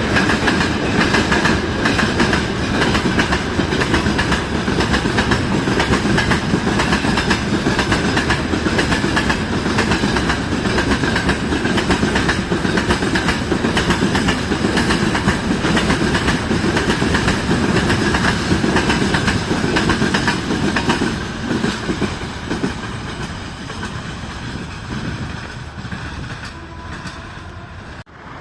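A train passing close by, its wheels clattering over the rail joints in a steady rapid rhythm, then fading away over the last several seconds as it moves off.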